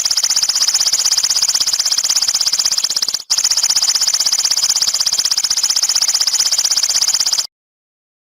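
A bird giving a loud, continuous, very rapid high-pitched trill with a brief break a little over three seconds in. It cuts off abruptly near the end.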